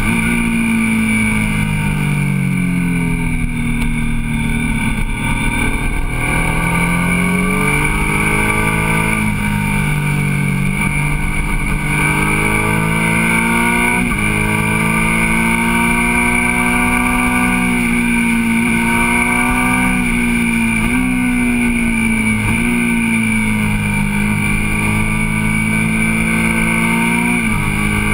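Motorcycle engine heard from onboard on a twisty road, its pitch falling off the throttle into the bends and rising again on the drive out, with a few quick jumps in pitch at gear changes about halfway, around three quarters and near the end. Wind rush sits underneath.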